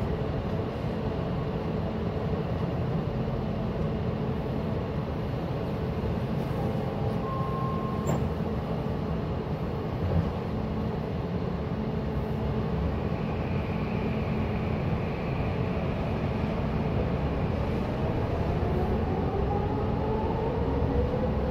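SkyTrain car standing at a station platform, its equipment giving a steady rumbling hum. A short beep comes about seven seconds in, and a rising whine begins near the end.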